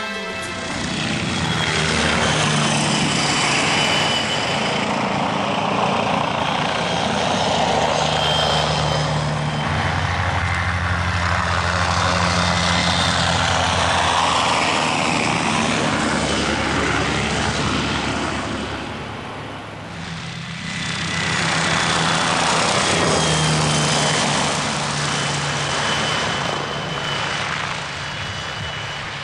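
Helicopter in flight, a steady engine and rotor noise that swells and shifts as it moves past, dipping briefly about two-thirds of the way through.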